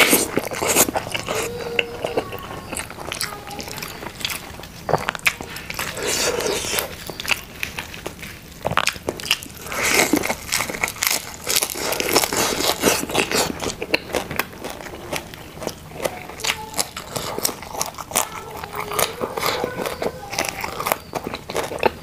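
A person chewing and crunching food close to a clip-on microphone: dense, irregular wet mouth clicks, bites and crunches.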